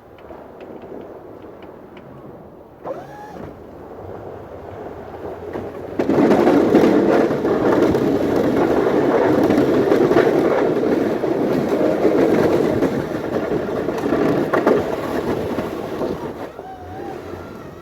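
A snow shovel scraping along pavement: a lighter scrape at first, then a long, loud push from about six seconds in until near the end.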